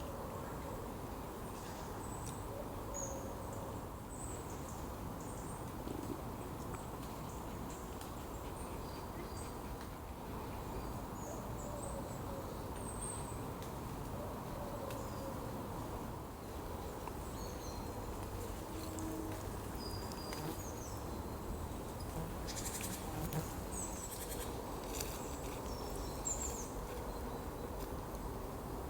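Woodland ambience: scattered short bird chirps and calls over a steady low background rumble, with a few short crackles, like rustling leaves or twigs, in the last few seconds.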